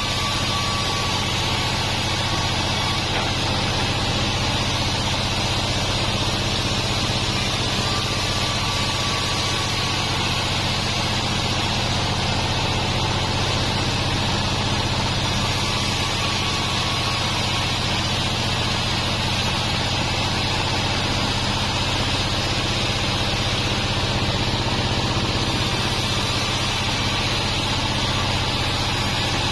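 Sawmill band saw running steadily, with a constant low machine hum and a hiss of noise over it.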